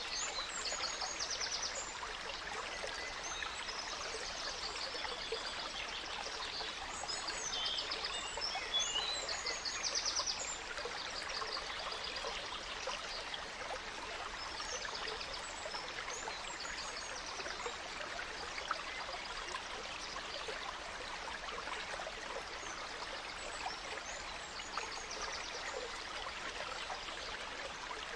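A gentle stream babbling steadily, with songbirds chirping and trilling over it, the birds busiest in the first ten seconds or so and sparser after.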